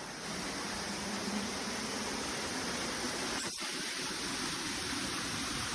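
Waterfall rushing steadily as an even hiss of falling water. A single brief click about three and a half seconds in.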